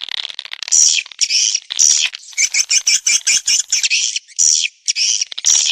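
Swiftlet calls on a swiftlet-farming lure recording: dense, high twittering chirps in quick bursts, with a brief gap near the end.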